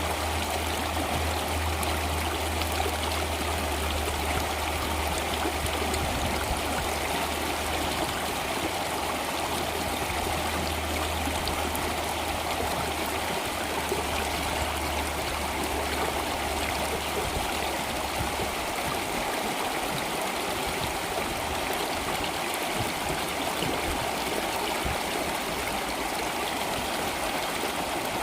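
Stream water flowing steadily, an even rushing and trickling. A low steady hum sits under it and stops about two-thirds of the way through.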